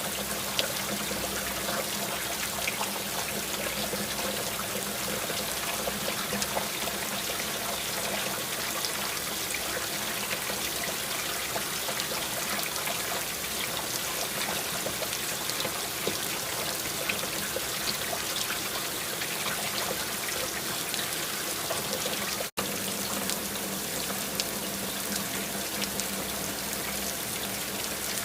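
Steady rain: an even hiss of falling water with many small drop ticks, and a faint low hum underneath. The sound cuts out for an instant about 22 seconds in.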